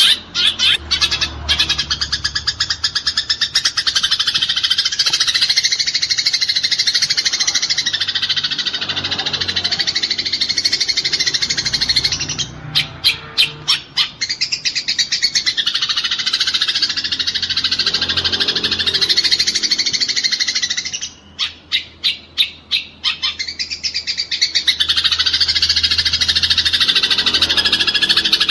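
House sparrows chattering in a fast, unbroken stream of chirps, the agitated calls of sparrows fighting. The stream breaks twice into a string of separate chirps, once near the middle and again about two-thirds of the way through.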